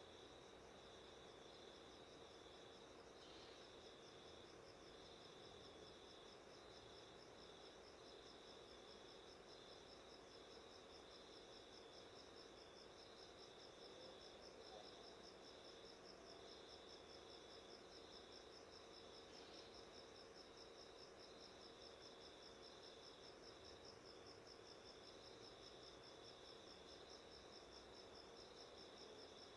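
Faint, steady chorus of chirping insects, crickets by its sound: a fast continuous trill high up with a lower line of short chirps pulsing beneath it.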